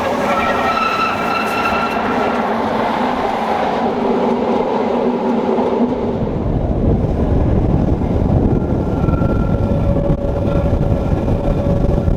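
Rhaetian Railway train running on the Bernina line, with several high squealing tones from the wheels in the first few seconds that fade out. A heavy low rumble takes over about halfway through.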